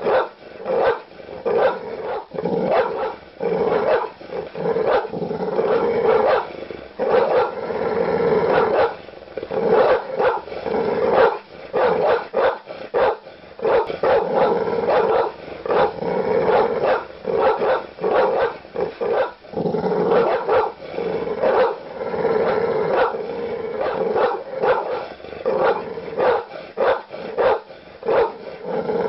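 Large dog barking aggressively in rapid, repeated deep barks with growling between them, with short pauses here and there.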